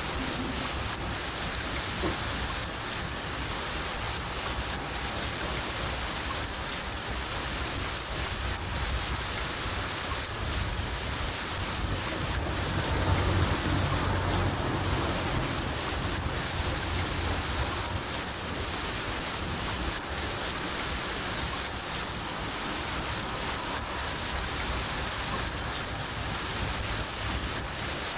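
A cricket chirping steadily, a high, evenly pulsed chirp about three times a second, over the steady hiss of rain. A low rumble of thunder swells briefly around the middle.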